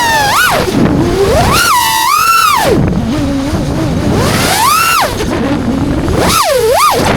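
FPV quadcopter's motors and propellers whining, the pitch swooping up and down several times as the throttle is pushed and cut, over a rumble of wind on the microphone.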